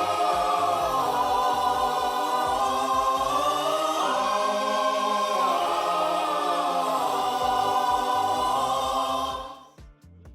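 Background choir music: voices holding long chords that change every few seconds. It cuts off about nine and a half seconds in, leaving only faint clicks.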